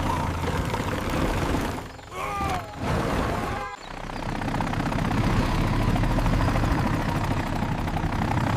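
Steady engine rumble of vehicles in an animated sound effect, broken by two brief dips about two seconds and nearly four seconds in.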